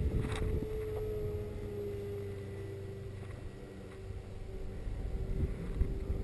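Electric motor and propeller of a Hobbyking Skipper RC plane humming steadily, heard from a camera on the plane itself, its pitch sinking slightly over the first few seconds. Wind rumbles on the microphone underneath.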